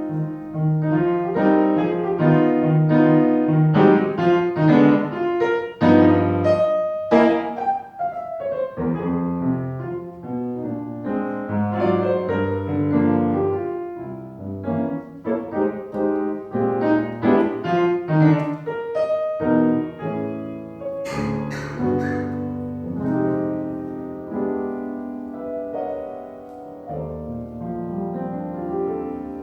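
Piano playing a tune, a melody over chords. A quick run of high notes comes about two-thirds of the way through, and the playing grows softer near the end.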